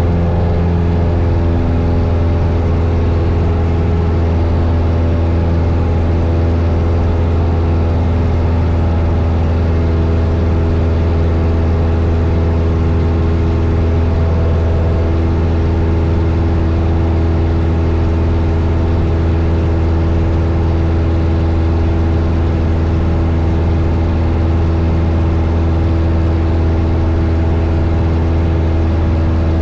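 1972 Cessna 172 Skyhawk's four-cylinder Lycoming engine and propeller droning steadily in cruise flight, heard from inside the cabin.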